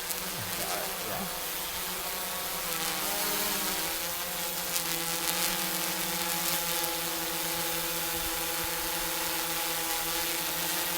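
Drone's motors and propellers humming as it returns to land overhead, a steady buzz of several tones. The pitch wavers about three seconds in, then settles while the hum grows a little louder.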